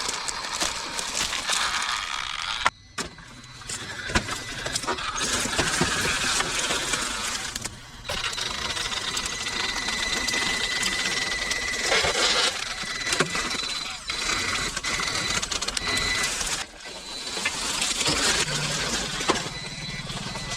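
Electric motors of radio-controlled off-road trucks whining as they drive, with a loud noisy churn underneath. The sound breaks off abruptly and resumes several times.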